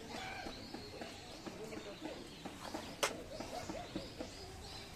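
Wild birds calling and chirping, with cooing calls among them, over outdoor ambience. A single sharp snap or click sounds about three seconds in.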